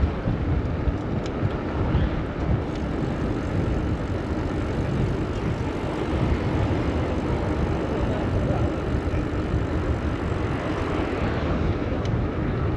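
Steady street-traffic and road noise heard from a moving bicycle: a dense, unbroken rumble heaviest in the low end.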